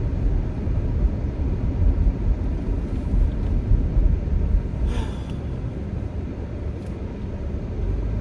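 Steady low engine and road rumble heard inside the cabin of a moving 12-year-old car with a newly replaced engine. The car is shaking, which the owner suspects is a bad ignition coil.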